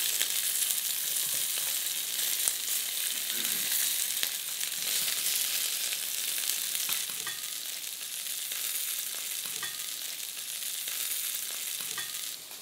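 Sausage balls sizzling steadily as they fry in a stainless steel frying pan, with a few light clinks of a metal spoon against the pan as they are turned over.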